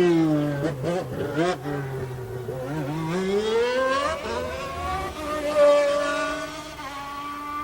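Honda RA121E naturally aspirated V12 of a 1991 McLaren MP4/6 Formula 1 car. Its revs fall sharply at first as it slows through the downshifts, with a few short cracks. They then climb steadily under acceleration, drop at a gearshift about four seconds in, and run high again near the end.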